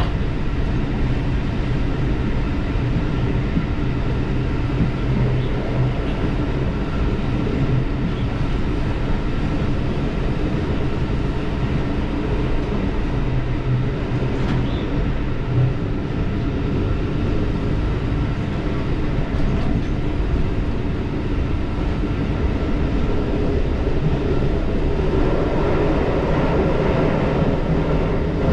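Diesel railcar running along the track: a steady rumble with a low engine hum, growing somewhat louder about 25 seconds in.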